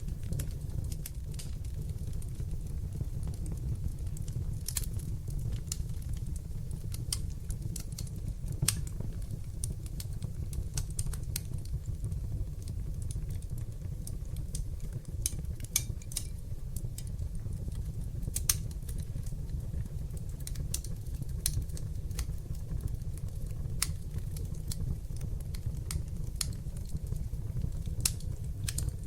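Wood fire in a fireplace crackling, with irregular sharp pops scattered throughout over a steady low noise of the flames.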